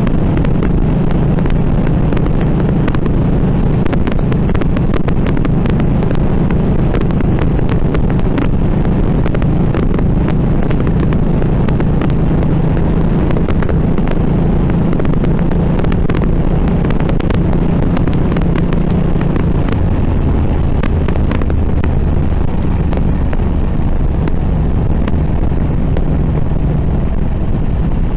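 Harley-Davidson Nightster's 975 cc V-twin running while the motorcycle is ridden on the road, with wind on the microphone. The engine note drops lower about twenty seconds in.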